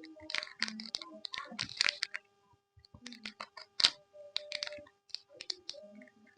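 Close-miked chewing of Yupi gummy candy: a run of quick wet mouth clicks and smacks at an irregular pace, with a few short hums from the throat, over a faint steady hum.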